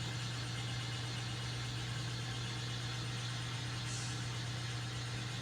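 Sound-equipped N scale model diesel locomotive's speaker playing a steady low engine drone, with a short faint hiss about four seconds in.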